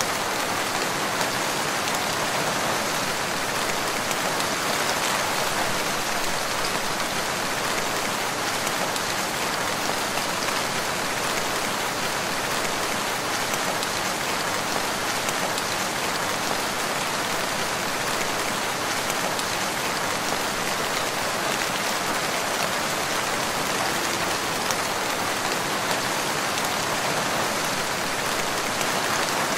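Steady rain: an even, unbroken hiss of many drops, with no thunder.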